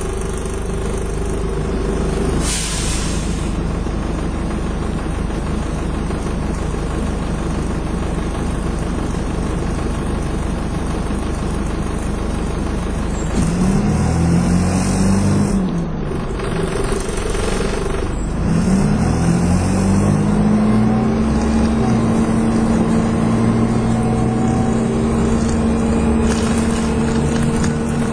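Dennis Dart SLF single-deck bus engine heard on board, running steadily at idle with a short hiss of air from the brakes about two seconds in. About halfway through the bus pulls away: the engine note rises, drops at a gear change, rises again and then settles into a steady cruise.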